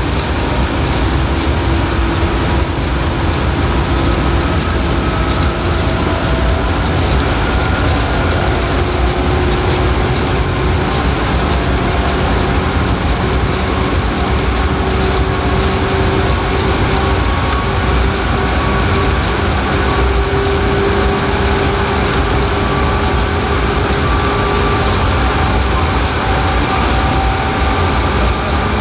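Seibu 4000 series electric train running between stations, heard inside the passenger car: a loud steady rumble of wheels on rails, with faint whining tones that rise slowly in pitch as it gathers speed.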